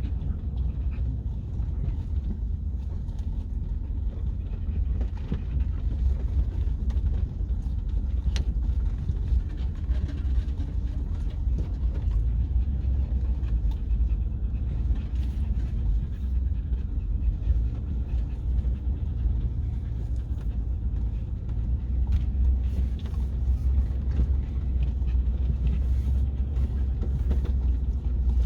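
Pickup truck driving slowly, heard from inside the cab as a steady low engine and road rumble, with a dog panting in the cab.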